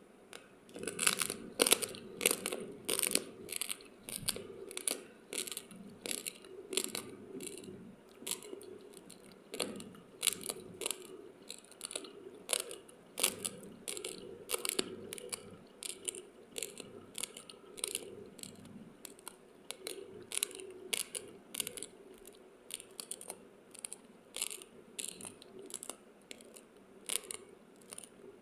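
Raw, uncooked basmati rice grains being chewed: a steady run of dry, crackling crunches, roughly one to two a second.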